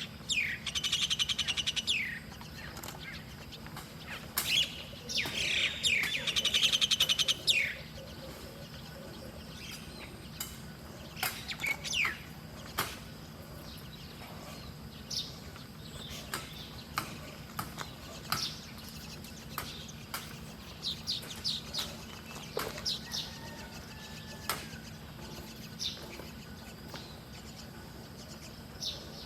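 Small songbirds chirping: two loud rapid buzzy trills in the first eight seconds, then scattered short high chirps.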